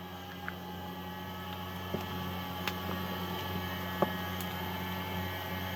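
Steady low mechanical hum, like a distant engine running, with a few faint sharp crackles from the wood fire under the pot.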